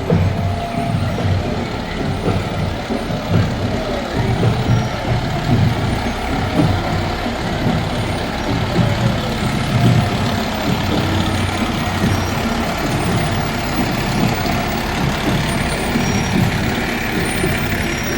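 A fire truck's engine running with a steady, heavy rumble as the truck moves past.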